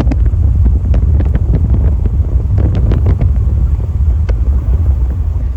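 Strong wind buffeting the microphone: a loud, steady low rumble with scattered short crackles.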